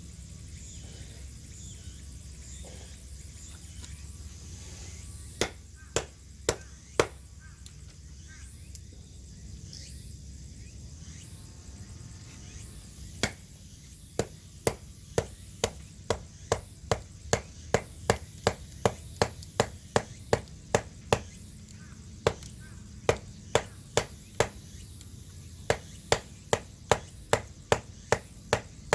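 Wood being chopped with a blade: a few sharp strikes, a pause, then a fairly regular run of two to three chops a second.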